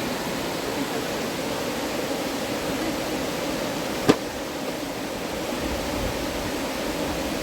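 Steady rush of river water, with one sharp click about four seconds in.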